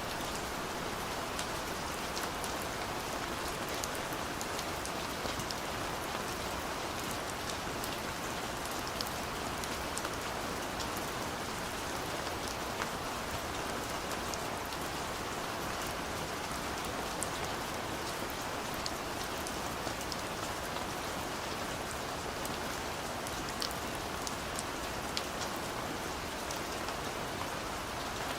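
Steady rain falling, an even hiss with many scattered single drops ticking through it and no thunder.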